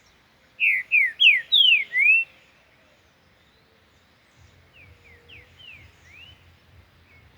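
Green-winged saltator (trinca-ferro) singing: a loud phrase of five slurred, whistled notes, then about three seconds later a fainter phrase of similar notes.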